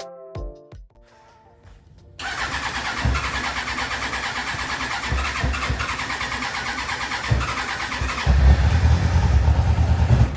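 Suzuki GSX-R inline-four motorcycle engine turning over on its electric starter: a sudden start into an even, pulsing churn. It gets heavier and louder about two seconds before it cuts off abruptly.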